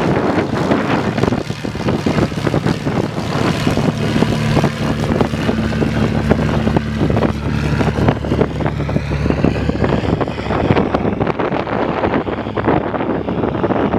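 Maule M-4 single-engine propeller plane at takeoff power, its engine drone strongest from about four to eight seconds in. Heavy wind buffets the microphone throughout.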